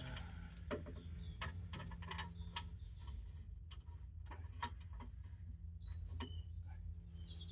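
Scattered light clicks and taps of metal parts and hand tools being handled, irregular, one or two a second, over a low steady hum.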